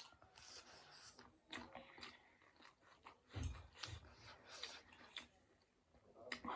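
Quiet close-up chewing of noodles and cabbage, with soft crunches and small bites scattered through.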